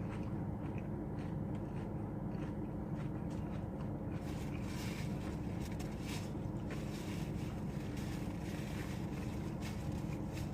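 Chewing with soft, scattered mouth clicks, busiest around the middle, over a steady low hum.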